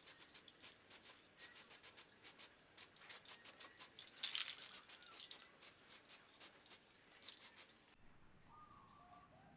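Rapid, repeated hand scraping strokes, about four a second, that stop about eight seconds in: parts being worked by hand. Faint bird chirps follow near the end.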